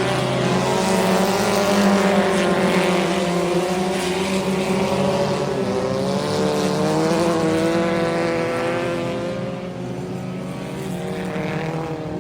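Race car engines running on a dirt track, several pitches rising and falling as the cars go around, easing down somewhat after about nine seconds.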